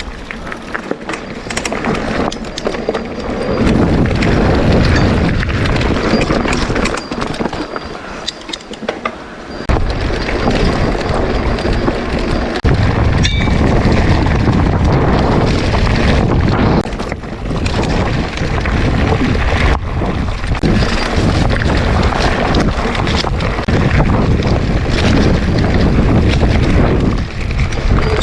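Wind rushing over the microphone and a mountain bike rolling over a dirt trail, with frequent knocks and rattles from the bike. The rumble grows heavier about ten seconds in.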